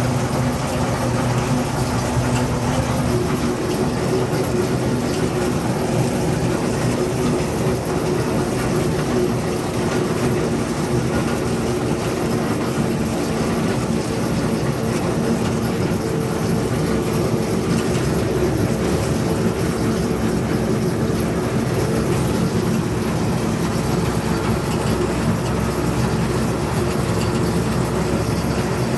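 Narrow-gauge train hauled by a Gemco locomotive rolling along steadily, its engine running at an even pitch under a constant rumble of wheels on rail with some clickety-clack.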